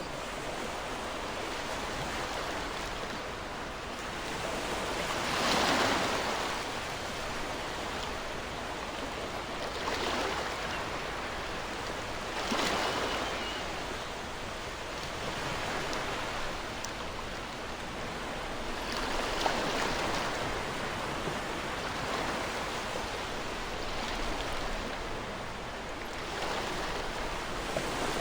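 Ocean waves breaking and washing on a shore, a continuous hiss of surf that swells with each wave every few seconds.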